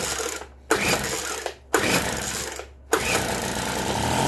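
Poulan Pro PBV 200 LE leaf blower's small two-stroke engine being pull-started on starter fluid. Three quick pulls of the recoil starter, each about a second long, then about three seconds in it catches and keeps running.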